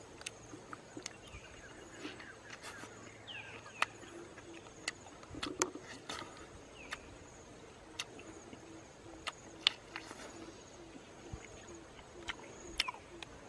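Chewing and lip-smacking while eating raw wild honeycomb: a string of sharp, irregular mouth smacks and clicks. Behind it a faint steady high tone, and from about four seconds in a low soft call repeating about twice a second.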